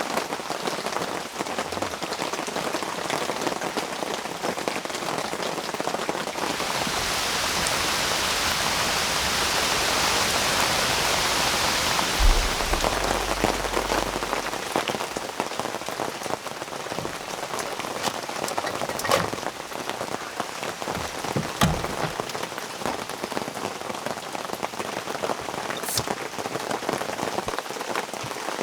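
Rain falling steadily as an even hiss, dotted with the ticks of individual drops. It swells into a heavier shower for several seconds about a quarter of the way in, with a dull low thump near the middle, then eases off. A few louder single drops land near the end.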